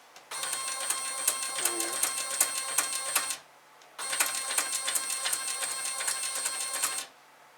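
3D printer's Z-axis stepper motor driving the axis down in two runs of about three seconds each, with a high-pitched whine and fine rapid ticking, stopping briefly in between. This is the stepper that the owner shows as wobbling badly and suspects is damaged.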